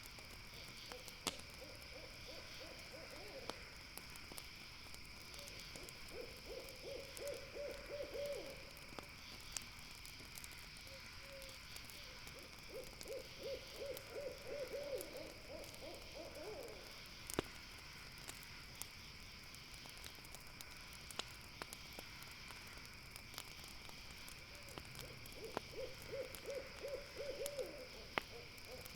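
An owl calling in runs of rapid trilled hoots, four runs of a few seconds each, over a steady high-pitched insect drone. Occasional sharp pops from a campfire.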